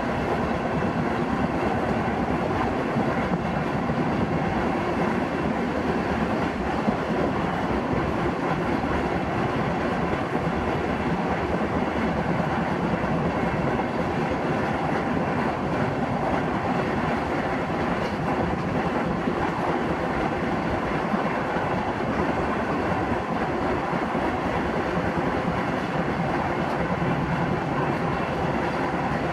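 Indian Railways passenger train running, heard from aboard: a steady, even rumble and rush of wheels on rails.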